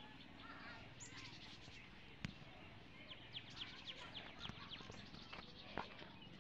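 Faint birds chirping in quick runs of short calls, with one sharp click a little over two seconds in.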